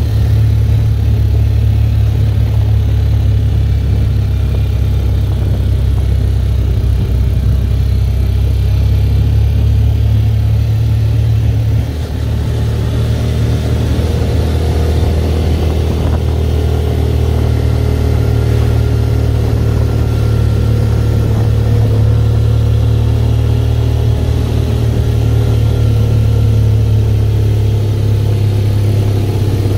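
Motorcycle engine of a Philippine tricycle running steadily on the road, with a brief dip in the engine note about 12 seconds in.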